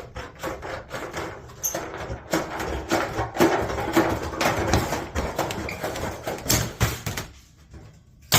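Hand shears cutting through sheet metal in a quick run of snips, with metallic scraping and rustling of the sheet; the cutting stops about seven seconds in, followed by a single sharp knock at the very end.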